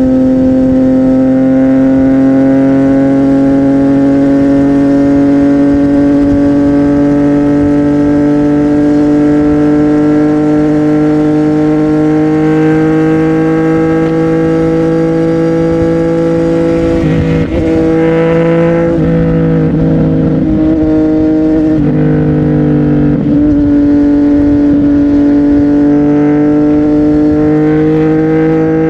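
CFMOTO 675NK's 675 cc inline three-cylinder engine running loud through a Burnout titanium exhaust while riding, its pitch climbing slowly and steadily. About two-thirds of the way in, the pitch dips and comes back up several times before climbing again.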